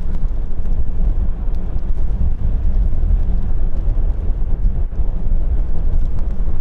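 Low, steady rumble of a jet airliner's engines at an airport, mixed with wind buffeting the microphone.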